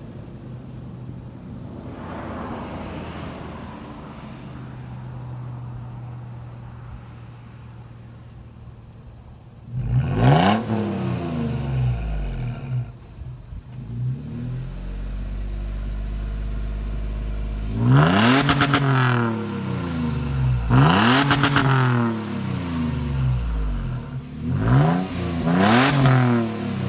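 2007 Toyota 4Runner 4.0 L V6 running through an Aero Turbine AT2525 cat-back muffler: idling steadily, then blipped about five times from about ten seconds in, each rev rising quickly and falling back to idle.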